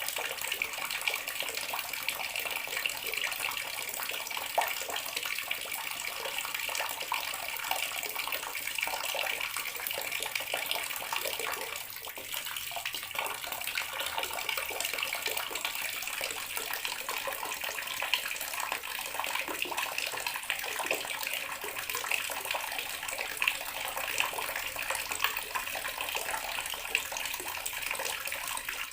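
Water running steadily from a bathroom tap, splashing into a basin or tub below.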